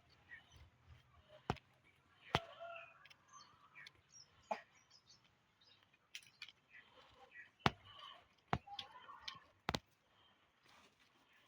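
Chickens feeding on water hyacinth: about six sharp, scattered taps of beaks pecking, with soft clucks and chirps between them.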